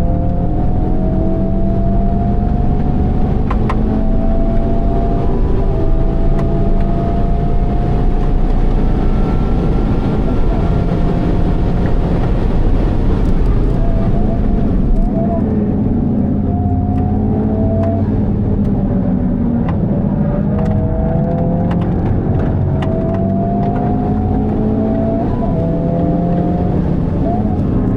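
Honda Civic Type R FL5's turbocharged 2.0-litre four-cylinder through a Mugen exhaust, heard from inside the car while lapping a race track. The engine note climbs steadily under hard acceleration and drops back at each gear change; about halfway through it eases to a slightly lower level with shorter climbs and dips.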